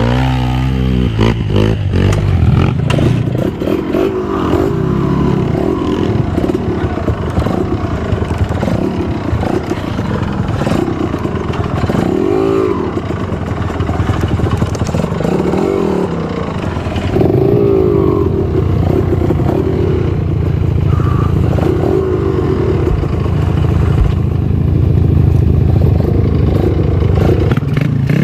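Trail motorcycle engine running and revving, its pitch rising and falling over and over, and getting louder about seventeen seconds in.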